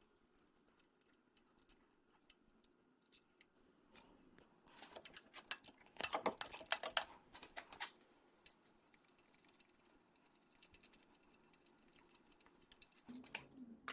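Sped-up sounds of hand tools working a distributor off an engine: faint scattered clicks, with louder spells of rapid clicking and rattling about five seconds in and again from six to eight seconds.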